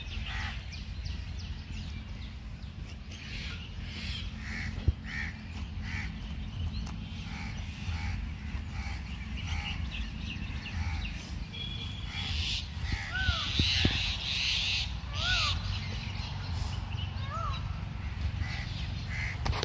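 Birds calling repeatedly with harsh, crow-like caws, and a few short rising-and-falling calls in the second half. A steady low rumble runs underneath, and there is one sharp tap about five seconds in.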